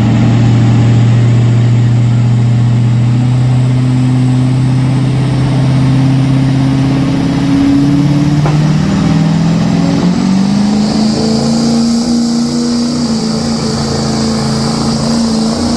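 Pulling truck's engine running hard under load down the pull track, holding a steady pitch and then climbing higher over the second half.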